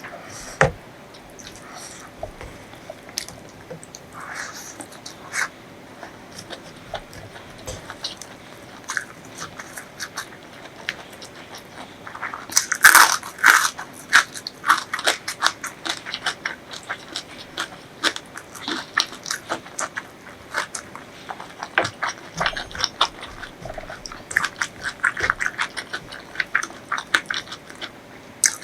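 Close-miked eating sounds: biting and chewing with crunchy bites and many sharp mouth clicks, in dense runs about halfway through and again near the end.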